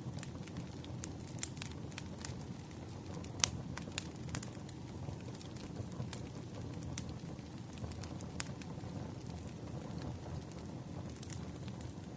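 Wood fire crackling: irregular sharp pops and snaps over a steady low rumble of burning logs, the loudest snap about three and a half seconds in.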